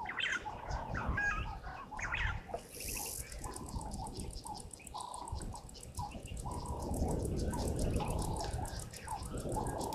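Wild birds chirping, with several short, quick calls in the first few seconds, then a rapid, steady high ticking over a low rumble.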